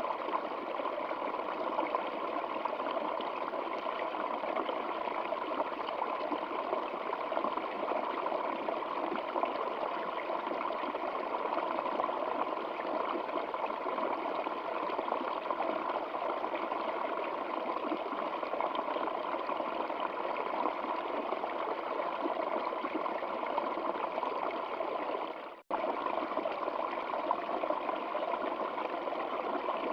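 Flowing stream water, a steady rushing and trickling. Near the end it briefly fades out and cuts straight back in.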